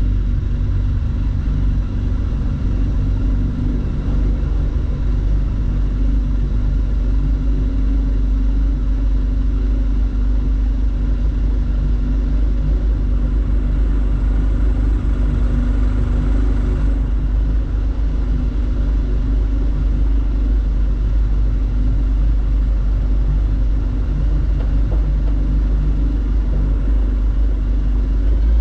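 An engine running steadily at a constant speed, a deep continuous rumble with no change in pitch.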